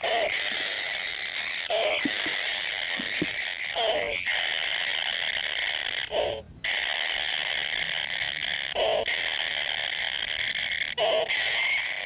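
Forest ambience: a steady, high, buzzing chorus, with a short low call about every one to three seconds. The chorus cuts out briefly a little past halfway.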